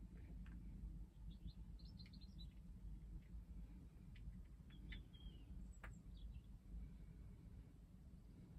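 Faint bird chirps: a few short, high calls scattered through, over a quiet low background.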